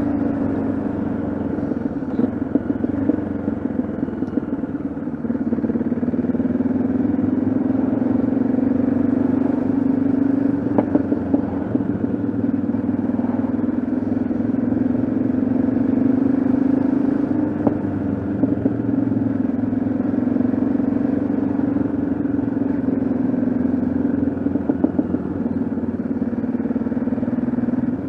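Yamaha XT660Z Ténéré's single-cylinder engine running steadily under way, heard from on board the bike. Its note dips slightly about four seconds in, then picks back up and holds.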